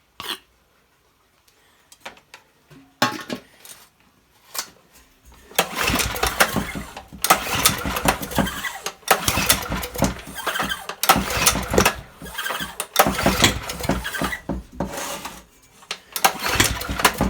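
Old Honda generator's small engine being pull-started on its recoil starter about six times in a row, a second or two apart. On each pull it fires and pops on the squirt of petrol but does not catch and run.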